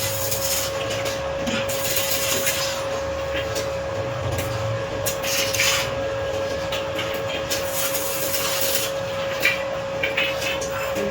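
Irregular rubbing and rustling handling noises with a few sharp clicks, over a steady high hum.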